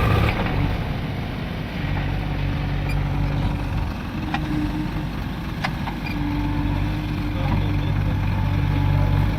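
Diesel engines of the tractors and backhoe running steadily under load, a low hum whose pitch shifts slightly about two seconds and six seconds in.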